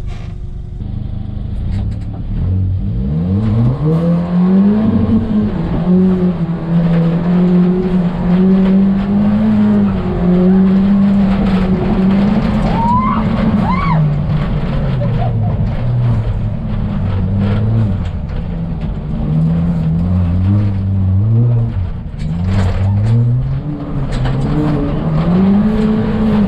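Ford Fiesta ST rally car's engine revving hard. Its pitch climbs from about two seconds in and holds high, then falls and climbs again several times as it is driven and drifted around a rallycross course. A brief rising squeal comes near the middle.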